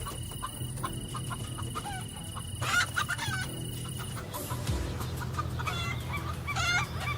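Chickens clucking in a series of short calls, which come thicker in the second half.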